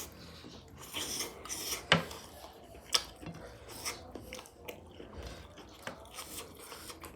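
Quiet eating at a plate of curry: light scraping and scattered small clicks, with two sharper clicks about two and three seconds in.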